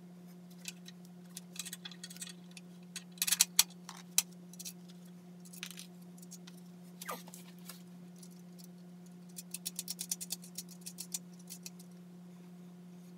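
Small metal clicks and taps of screws, hardware and tools being handled while a saw is fastened to its stand rails, irregular, with a quick run of clicks about ten seconds in, over a steady low hum.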